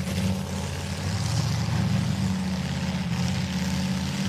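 Demolition derby cars' engines running hard, a steady heavy drone with a rough noisy edge above it.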